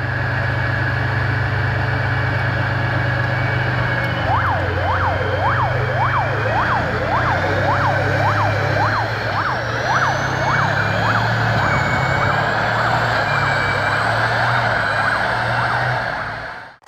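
A vehicle engine running steadily, with a siren starting about four seconds in that wails up and down quickly, about twice a second. The sound cuts off abruptly near the end.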